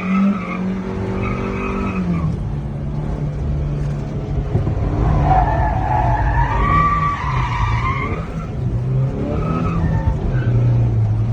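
Suzuki Carry mini truck drifting with its rear differential locked: the tires screech in long wavering squeals over the running engine. The squeal eases off about two seconds in and comes back strongly from about five to eight seconds.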